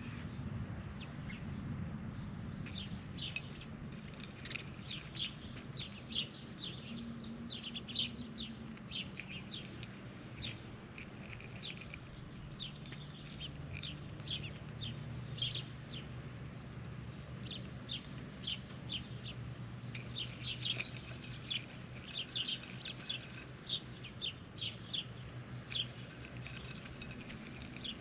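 Wild birds chirping: many short, sharp chirps repeating throughout, over a steady low hum.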